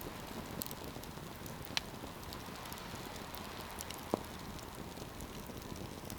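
Wood campfire burning with a steady hiss and scattered sharp crackles and pops, two louder pops about two and four seconds in.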